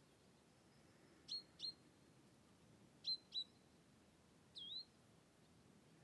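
A small bird calling: two pairs of short, high, down-slurred notes, then a single swooping note near the end, over quiet outdoor background.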